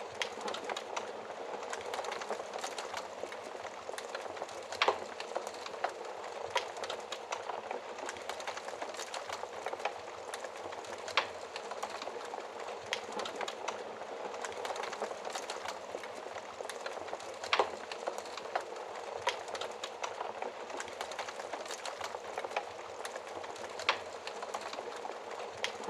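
Wood fire crackling steadily in a fireplace, a constant soft hiss dotted with many small crackles and a few louder sharp pops every several seconds.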